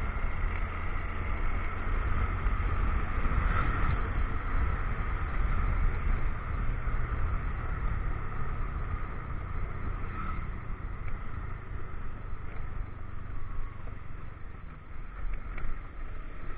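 Motorcycle on the move: a steady engine note and low wind rumble picked up by an action camera's microphone, easing slightly near the end.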